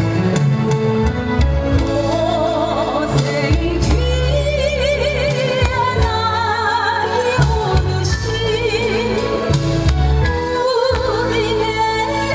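A woman singing a slow song with wide vibrato over instrumental accompaniment with a steady bass line.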